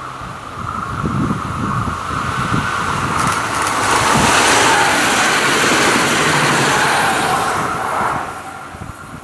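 A train passing: the rail and wheel noise builds over the first few seconds, is loudest from about four to eight seconds in, then dies away.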